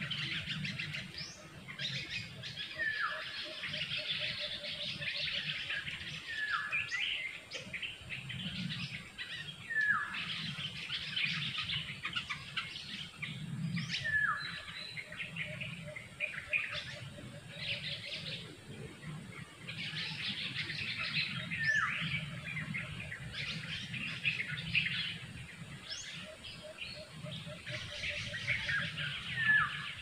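Wild birds calling in forest: sharp downward-sliding chirps every few seconds over continuous high chattering birdsong, with a faint low trill now and then.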